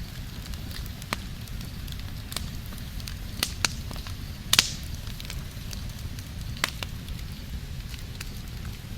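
Fire crackling: a steady low rumble of burning with scattered sharp pops, the loudest a little past halfway.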